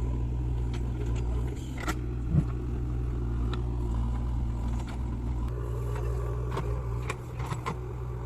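Heavy diesel engine running steadily at an even, low speed, with a few light clicks and one short knock about two and a half seconds in.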